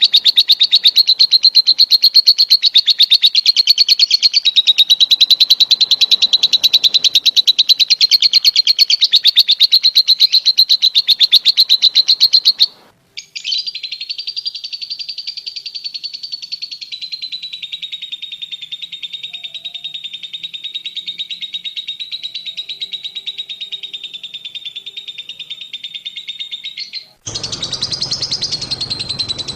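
Lovebird giving its long ngekek chatter: a rapid, unbroken, high-pitched trill that stops abruptly about thirteen seconds in, resumes quieter, and breaks off again near the end before coming back louder.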